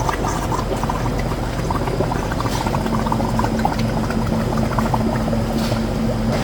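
Running, pouring water over a steady machine hum, with a low steady tone joining a little under three seconds in.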